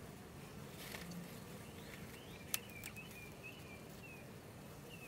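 A bird chirps repeatedly, short downward-sliding notes over a faint low hum from an open honeybee hive. A single sharp click comes about two and a half seconds in.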